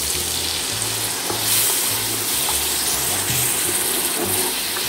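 Ground-chili spice paste sizzling in hot oil in a wok, a little water just added, stirred with a wooden spatula.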